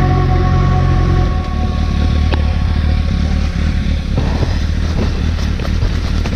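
Motorcycle engine running steadily, after held background-music tones end about a second in.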